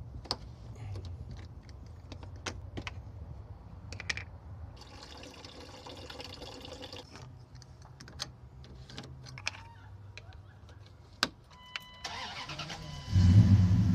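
Scattered clicks and handling noises over a low hum. About twelve seconds in come a few short electronic tones, then the Dodge Ram 1500's engine turns over and starts, running loudly.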